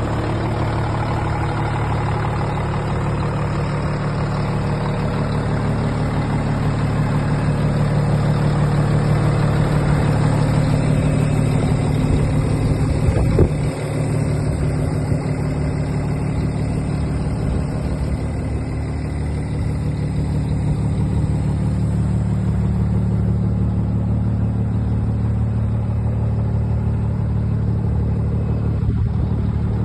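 Scania P92 truck's diesel engine running steadily, its level swelling a little and easing off again, with one sharp knock about halfway through.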